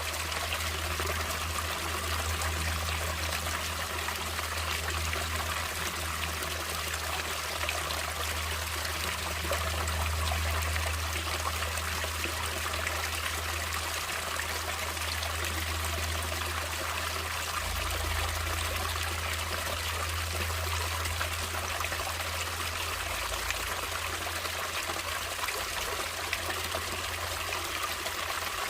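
Water of a natural stream running and trickling steadily, with a constant low rumble underneath.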